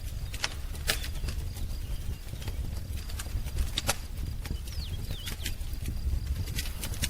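Wood fire crackling, with irregular sharp pops over a low steady rumble. A couple of faint short bird chirps come about two thirds of the way in.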